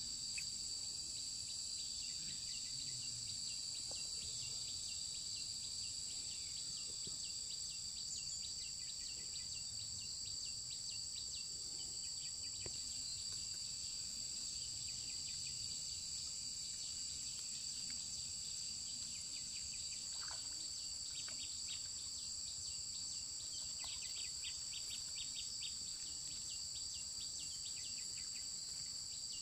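Steady, high-pitched chorus of field insects at two even pitches, with faint scattered chirps.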